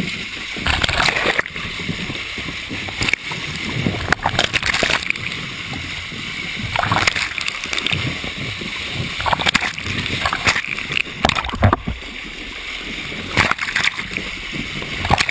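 Turbulent water splashing and churning, with irregular loud surges of splashing every second or two.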